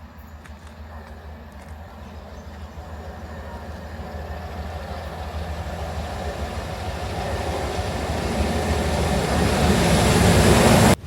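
A train approaching along the line, its rumble growing steadily louder as it nears, over a steady low drone.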